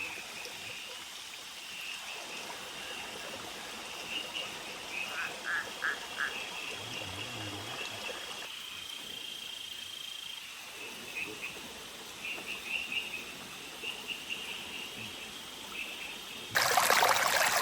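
Frogs calling in short repeated chirps over a steady hiss, with a brief steady high tone partway through. About a second before the end, a loud rush of splashing water cuts in suddenly.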